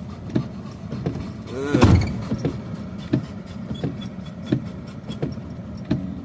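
Heavy rain on a car in a thunderstorm, with a sharp knock repeating about every two-thirds of a second.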